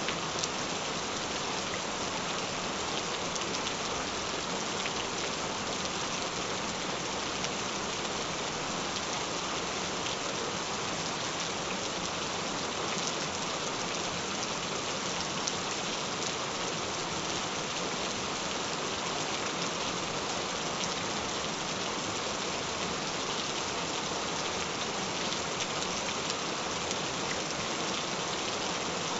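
Gentle rain falling steadily, an even hiss of drops with scattered small ticks of single drops.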